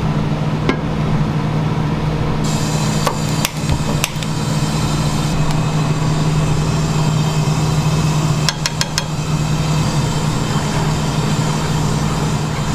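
A steady mechanical hum, with a few sharp knocks: one near the start, several around three to four seconds in, and a quick cluster of clicks about two-thirds of the way through.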